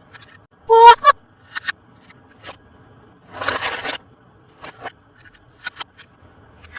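Toy packaging being handled and opened: scattered light clicks and taps, a loud short squeak about a second in, and a brief rasping scrape around the middle.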